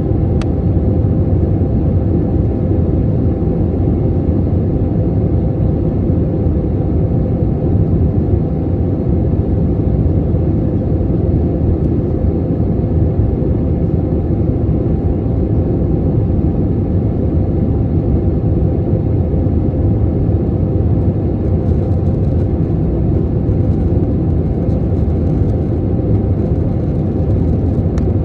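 Steady low drone of an airplane in flight, unchanging in level throughout, with a couple of faint steady tones riding on the rumble.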